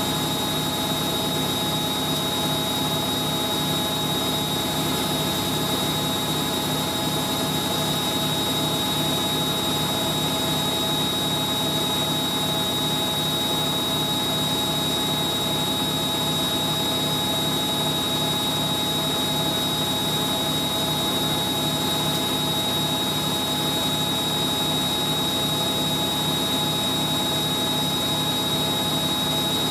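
Hoover A3060 Electronic 1100 washing machine on its high-speed final spin: the motor runs with a steady high whine over a regular pulsing hum from the spinning drum.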